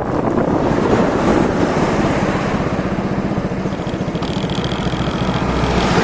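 Yamaha Majesty S 155 scooter's single-cylinder engine running under way, with wind noise on the microphone.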